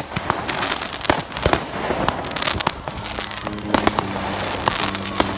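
Fireworks display going off: a rapid, irregular string of sharp bangs and crackles.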